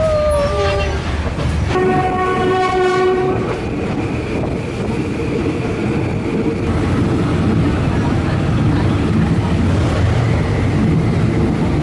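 Train running on the rails with a steady rumble and rattle, and the train horn sounding one steady blast of about a second and a half, about two seconds in.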